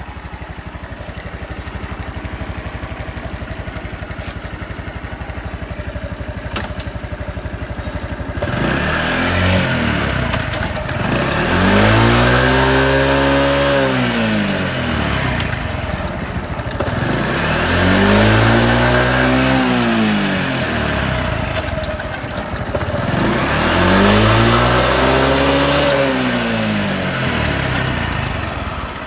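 Honda Super Cub 110 (JA07) fuel-injected single-cylinder four-stroke engine idling steadily, then revved up and let back down three times, each rev rising and falling over several seconds. It runs with no abnormal engine noise.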